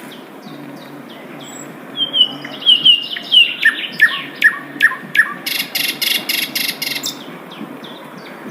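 Sikatan londo flycatcher singing in the wild. Soft falling whistled notes build from about two seconds in into a run of louder notes that slide downward, then break into a fast buzzy rattle of about six notes a second that stops about seven seconds in.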